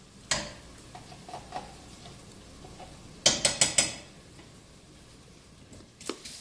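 A utensil knocking and clattering against the pan as the frying veal, onions and garlic are stirred: one knock just after the start, a quick run of four or five clacks a little over three seconds in, and another knock near the end, over a faint sizzle.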